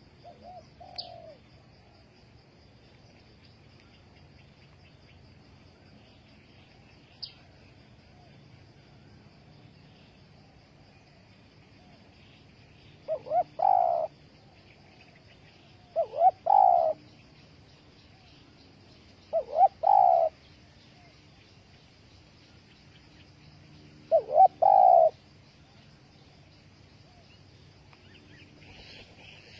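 Spotted dove cooing: four calls a few seconds apart, each two quick notes followed by a longer one, after a fainter call at the start. A faint, steady, high-pitched buzz runs underneath.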